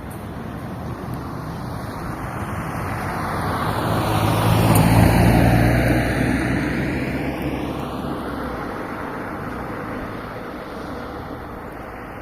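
A road vehicle driving past: its engine and tyre noise swell to a peak about five seconds in, then fade away.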